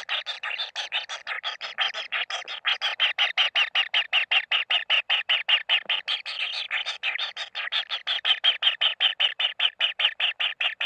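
Kingfisher chicks begging at the nest: a fast, unbroken run of short raspy calls, about seven a second.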